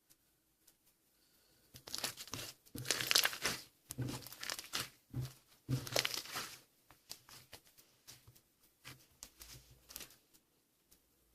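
Hands pressing and stretching toy slime: a run of short, crackly, sticky noises, loudest from about two to seven seconds in, then fainter and sparser.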